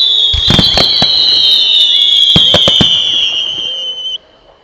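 Fireworks: two high whistles sound together and slide slowly down in pitch, then cut off abruptly about four seconds in, with several sharp bangs around half a second in and again around two and a half seconds in.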